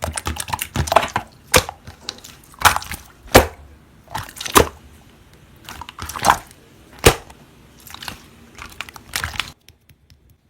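Slime being squished and pressed by hand, giving irregular sharp clicks and pops that stop about nine and a half seconds in.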